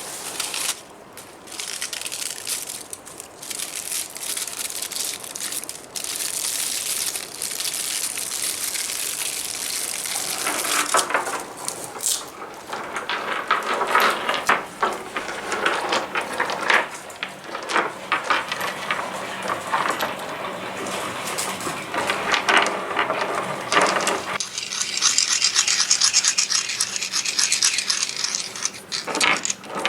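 Rubbing and scraping sounds made on objects in a live sound-art performance, rough and irregular with no clear pitch. The texture thickens and grows louder from about a third of the way in.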